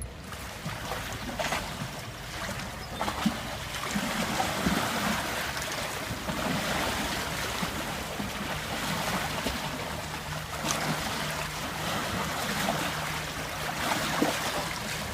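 Steady rush of flowing river water, an even wash with small splashes and clicks.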